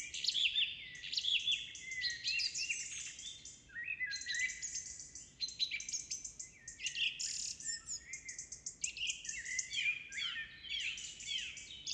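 Several songbirds singing at once, a dense chorus of chirps, down-sweeping whistles and fast rattling trills that overlap.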